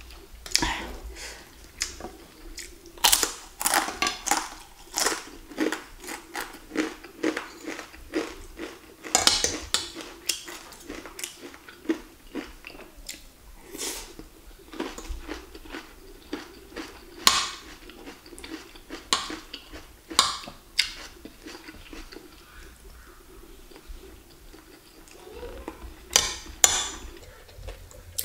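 Close-up eating sounds: chewing and crunching of rice, stir-fried pak choy and fried crackers, with a spoon and fork clinking and scraping on a plate in many short, sharp, irregular sounds.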